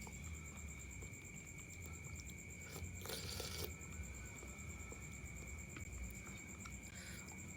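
Soft chewing and mouth sounds of someone eating chicken noodles, with a short louder noisy burst about three seconds in. A steady high insect trill, like crickets, runs underneath.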